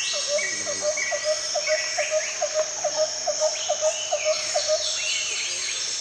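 Tropical forest ambience: insects keep up a steady high drone, with birds chirping above it. Over this comes a run of short, evenly repeated low call notes, about three a second, which stops about five seconds in.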